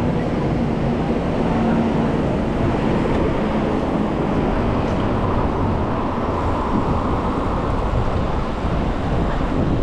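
Steady city road traffic: motor vehicle engines and tyres, heard from a moving bicycle with a dense low rumble. A steady low engine hum from a nearby vehicle stands out during the first few seconds, then fades.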